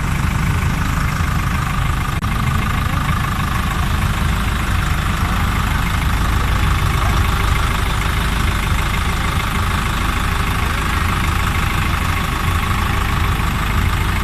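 An engine running steadily, with a constant low rumble and no change in speed.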